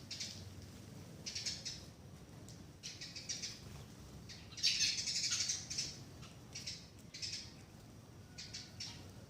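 A bird calling in short, rapid chattering trills, a burst every second or two, with the longest and loudest about five seconds in.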